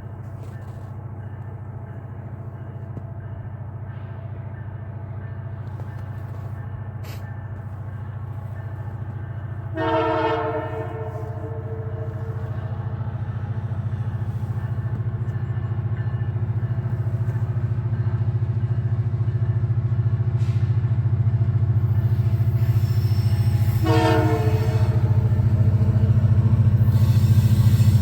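Diesel locomotive of the CPKC Christmas train approaching, its low engine drone growing steadily louder. It sounds two short horn blasts, one about ten seconds in and another a few seconds before the end, and a hiss of wheel and rail noise builds in the last few seconds.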